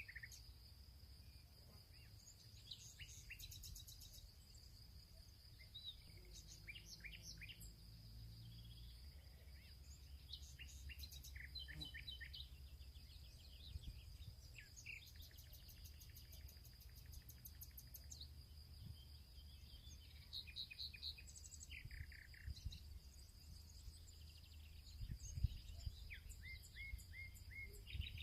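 Faint field ambience: several small birds chirping and trilling in short calls throughout, over a steady high insect-like buzz and a low rumble, with a soft low bump near the end.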